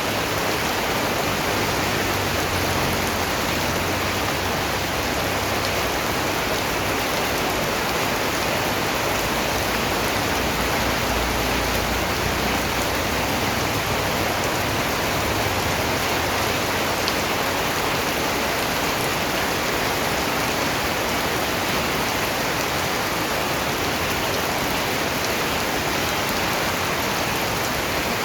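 Steady, even rain falling on surfaces, a continuous dense patter with no distinct drops standing out.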